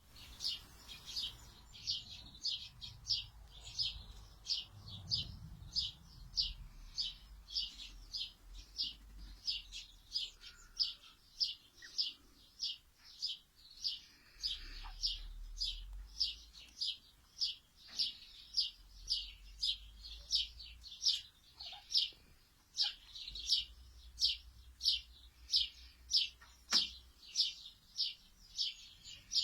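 A bird chirping with short, high calls repeated steadily, about two a second.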